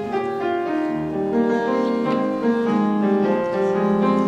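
Solo piano playing a melody over sustained chords, with notes changing about every half second.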